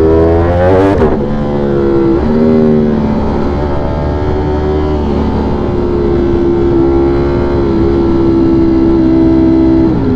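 V4 sport motorcycle engine pulling through the gears: the revs climb and drop sharply at upshifts about one and two seconds in, then hold a steady cruise before another drop near the end, over a low wind rumble.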